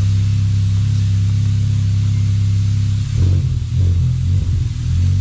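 Honda Civic Type R's turbocharged 2.0-litre four-cylinder running steadily at idle on the dyno, with a few short throttle blips about three seconds in.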